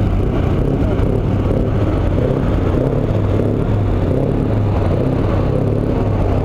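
A truck engine running steadily with a constant low hum.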